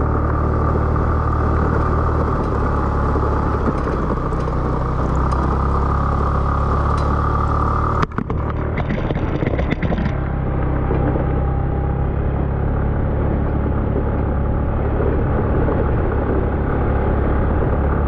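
Motorcycle engine running steadily under load as it climbs a steep mountain road, with a brief clatter about eight seconds in.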